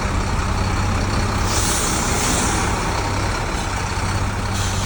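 Heavy diesel truck engine idling steadily, with a hiss of released compressed air starting about one and a half seconds in and lasting about a second, and another hiss near the end.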